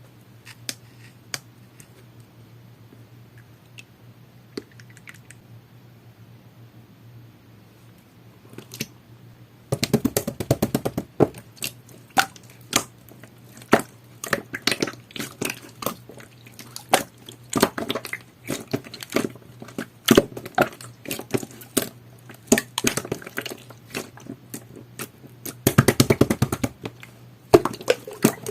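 Jelly-textured green glitter slime being squeezed and pressed by hand, making wet, sticky clicks and pops. The first stretch is quiet with only a few soft clicks; about ten seconds in the squishing becomes steady and busy, with a thick flurry of pops near the end. A low steady hum runs underneath.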